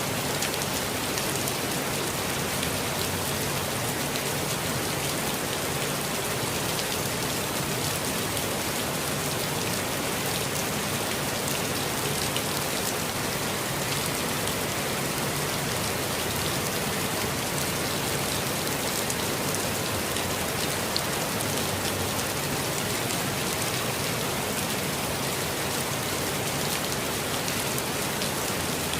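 Steady rainfall with a dense patter of drops on foliage and surfaces, even in level throughout.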